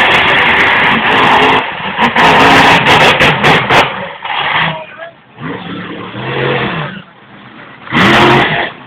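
Monster truck engine running loud and revving. The roar is continuous for about the first four seconds, then comes in separate surges in the second half.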